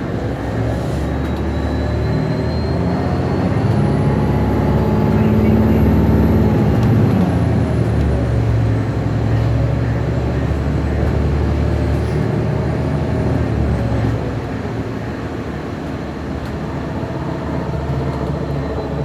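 2012 Gillig hybrid bus heard from inside while moving: a low drivetrain rumble under a thin high whine and a few middle tones that climb in pitch together over the first six seconds, then sink away, with a smaller rise and fall later on. It is the noise the rider found strange.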